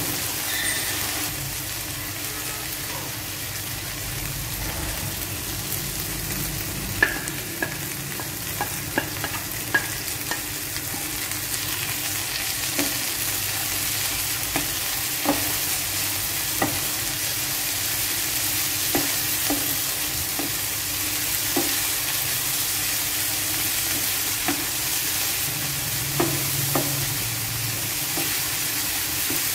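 Corn kernels and dried shrimp frying in a nonstick pan: a steady sizzle, with the spatula stirring and knocking against the pan every one to two seconds.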